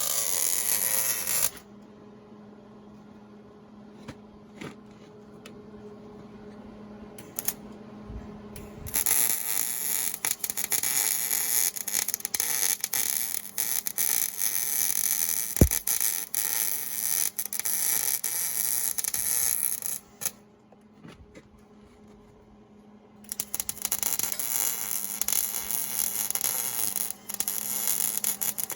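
Millermatic 141 MIG welder laying weld beads: dense crackling and sputtering in three runs, at the start, from about nine to twenty seconds in, and from about twenty-three seconds in, with a steady hum between them. A single thud about halfway through.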